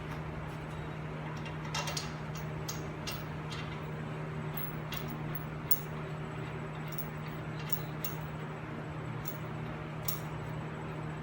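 Scattered light metallic clicks and clinks of tools and brake parts being handled during front brake reassembly, over a steady low hum.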